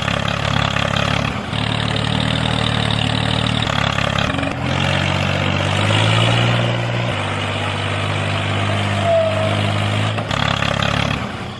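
A small engine running, its pitch shifting up and down in steps every few seconds, fading out near the end.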